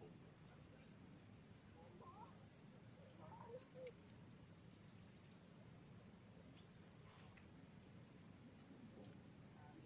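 Faint, steady high-pitched insect chorus with regular chirping pulses, with a few faint short squeaks a couple of seconds in.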